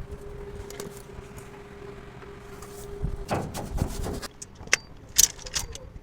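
Workshop noise: a steady hum, then a short low rumble and a few sharp clinks, the loudest about five seconds in.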